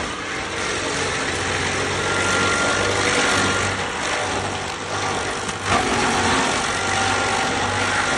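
Stump grinder running: a steady engine hum under a dense noisy hiss, with a sudden louder moment about five and a half seconds in.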